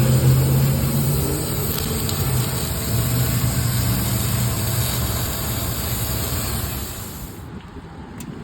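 Car engine running steadily with a low drone; the sound drops slightly and a high hiss cuts off about seven and a half seconds in.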